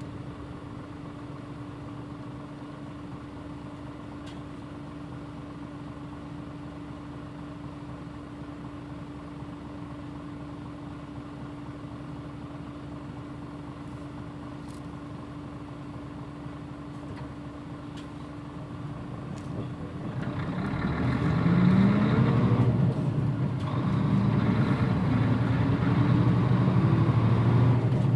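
Mitsubishi Fuso Aero Star (PJ-MP35JM) bus idling with a steady hum, heard from aboard the bus. About twenty seconds in, the engine revs up as the bus pulls away. Its pitch climbs, falls back at a gear change, and climbs again.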